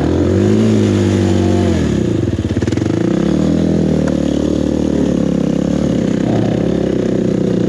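Enduro dirt bike engine revving up hard under load on a steep hill climb. It eases off briefly about two seconds in, then is held at steady high revs.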